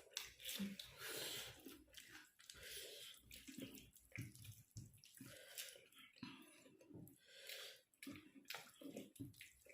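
Faint, wet eating sounds from close up: irregular chewing and lip-smacking.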